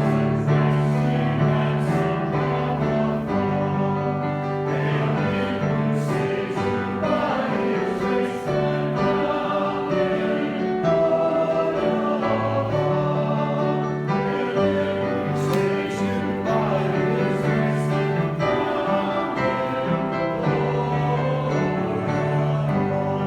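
Congregation singing a hymn together with instrumental accompaniment, many voices holding steady sung notes over sustained low chords.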